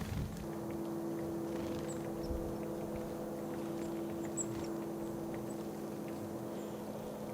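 A steady motor drone held on a few even tones, with faint high ticks and short chirps scattered over it.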